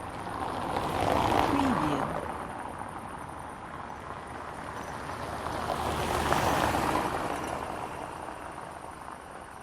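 Two cars passing by one after another on a paved road, each swelling up and fading away with tyre noise; the first has an engine note that drops in pitch as it goes past. Crickets chirp steadily underneath.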